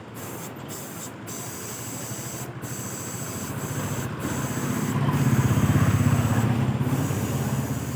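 Motorcycle tyre being filled from an air-station hose: a steady hiss that breaks off briefly several times, over a low, rapidly pulsing mechanical rumble that swells about five seconds in.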